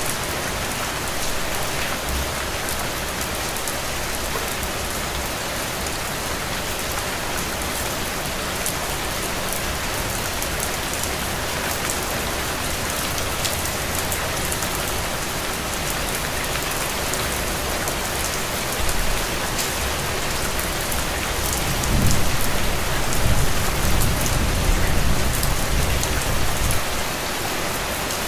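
Heavy, steady rain pouring onto soaked ground and puddles, an even hiss with dense drop patter. Near the end a low rumble swells for a few seconds and then fades.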